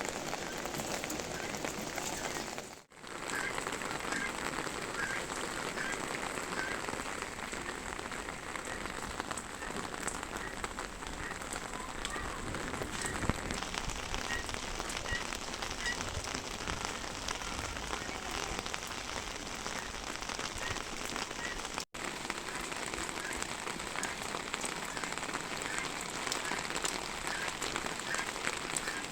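Steady rain falling and pattering on surfaces, with the sound cutting out for a moment twice, about three seconds in and again about three-quarters of the way through.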